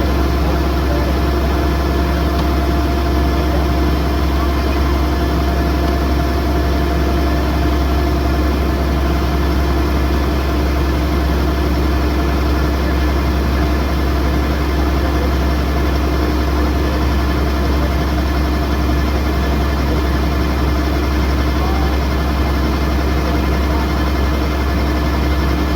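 Kubota DC108X combine harvester's diesel engine running steadily at a constant speed, with a deep, even drone and a steady hum.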